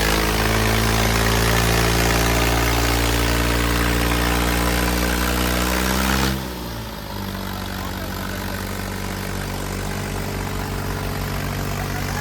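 Tractor diesel engines running hard under load. About six seconds in they ease off suddenly, the pitch dropping, then run on steadily at lower revs.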